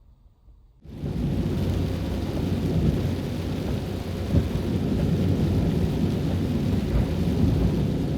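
Heavy typhoon rain in a dense, steady roar with a deep rumble, cutting in suddenly about a second in.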